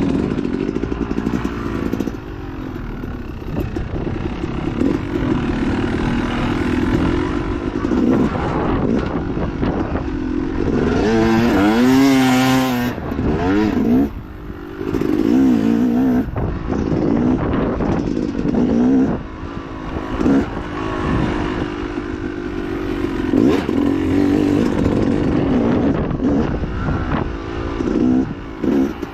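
Dirt bike engine under hard riding, its revs rising and falling continually as the throttle is opened and closed, with a sharp high rev about twelve seconds in.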